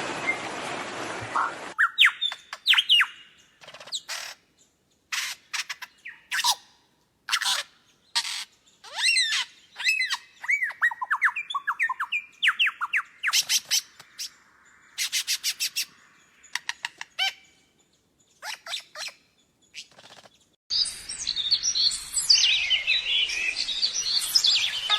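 A bird calling in a string of sharp chirps and short whistles, many sliding up or down in pitch, with brief gaps between them. Near the end a busier chorus of chirping comes in over a steady hiss.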